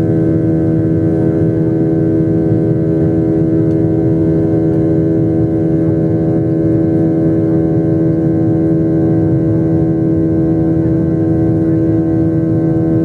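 Passenger plane's jet engines running steadily during take-off: a steady hum of several fixed tones over a low rumble.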